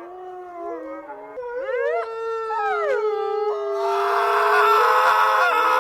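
Canine-like howling in a horror sound effect: several overlapping voices glide up and down, one holding a long steady note. A little after halfway a louder, harsh hissing wash joins, and the whole sound grows louder.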